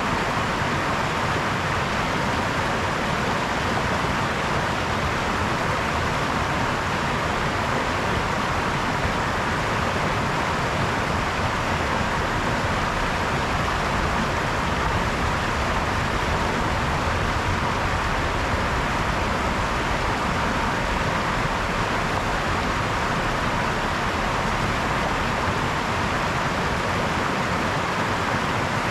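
A brook's running water, an even, steady rush with no breaks or changes.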